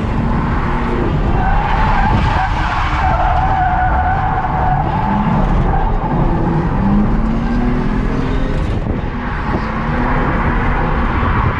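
Ford AU Falcon drifting: the engine revs up and down under a long tyre squeal. The squeal eases off about eight seconds in and comes back near the end.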